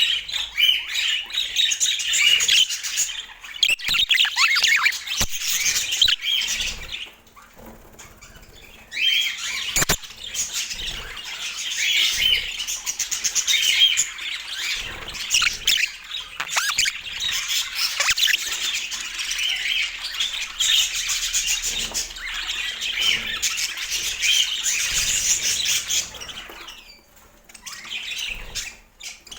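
Budgerigar chatter: a dense, fast run of warbling chirps and squawks, pausing about seven seconds in and growing quieter near the end, with a few sharp clicks.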